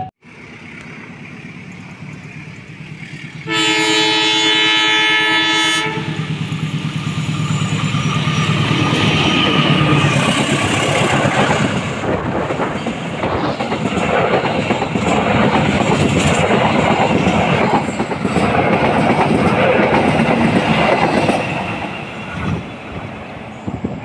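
A train approaches and sounds its horn once, a steady chord lasting about two and a half seconds. It then passes close by, its wheels clattering rapidly over the rail joints for about fifteen seconds, fading near the end.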